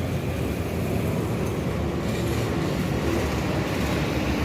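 Steady low rumble of vehicle traffic, with no distinct impacts or tool strikes.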